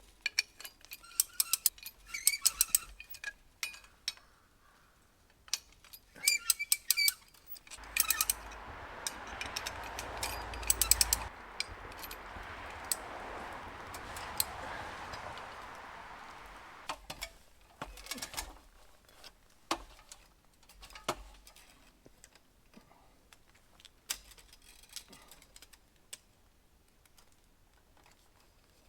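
Wire ratchet tensioner clicking in short runs of rapid clicks as the support wire is cranked tight. In the middle a rush of noise swells and fades over about nine seconds.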